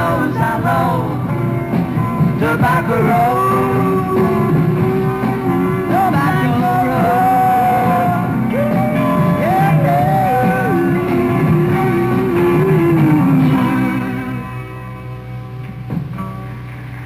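Live rock band playing with long held sung notes over guitar; the music falls away about fourteen seconds in, leaving a quieter low hum.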